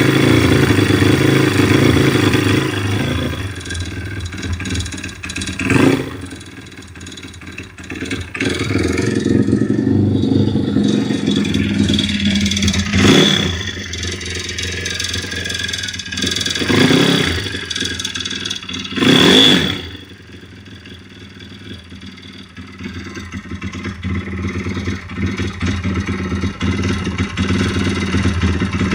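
YX 160cc single-cylinder four-stroke engine running, revved briefly four times between spells of idle. It has a wavering metallic ringing and knock that the owner cannot trace, even after adjusting the valves and finding little play in the wrist pin, connecting rod or camshaft.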